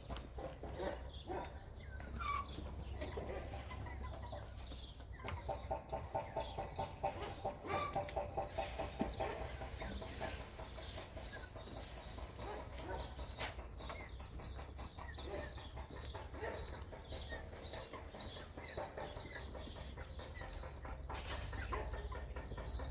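Chickens clucking in quick pulsed runs, with a rapid series of sharp taps through the middle.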